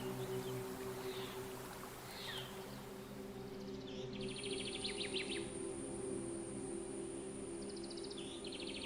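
Forest birds calling: short falling whistles, then rapid trilled calls about four seconds in and again near the end. A steady high insect whine starts about four seconds in, over a soft low drone of ambient background music.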